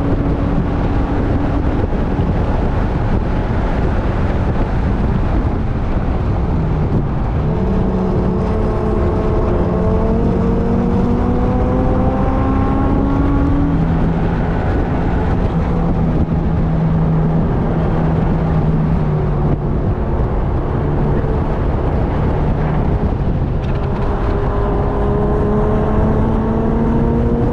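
Onboard sound of a car being driven hard around a race track. The engine's pitch climbs under acceleration twice, from about a quarter of the way in and again near the end, and holds steadier in between, under a constant heavy rumble of wind and road noise.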